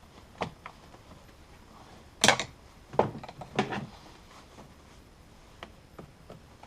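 Irregular sharp plastic clicks and knocks as the clips and side panel of a Volvo V70's engine-compartment fuse box are released and handled. The loudest knock comes a little after two seconds in, with a few more in the next second and a half.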